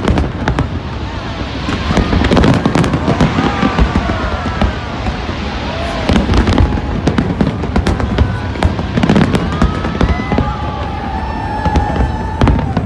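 Fireworks display going off: a dense run of bangs and crackling bursts over a continuous low rumble.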